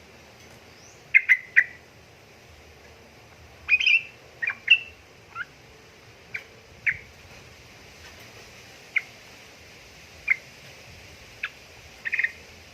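Yellow-vented bulbul (trucukan) calling: short, sharp notes spaced irregularly, with brief quick clusters of notes about a second in, around four seconds, and near the end.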